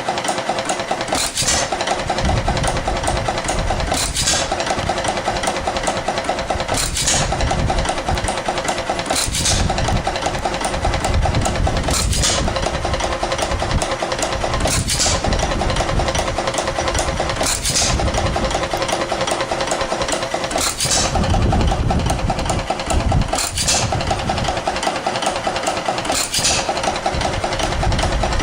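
1912 2 hp Sparta Economy single-cylinder hit-and-miss engine running with a continuous rhythmic clatter, firing a sharp bang about every three seconds and coasting between firings.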